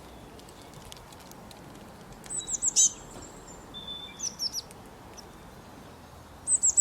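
Small songbirds chirping in short clusters of quick, high notes: about two seconds in, again around four seconds, and near the end. Under them runs a steady outdoor hiss.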